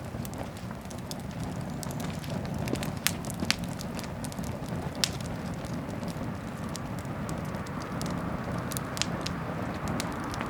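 Wood fire crackling and popping in a garden bonfire, with sharp pops scattered irregularly over a steady low rush; a few louder pops come about a third and halfway in.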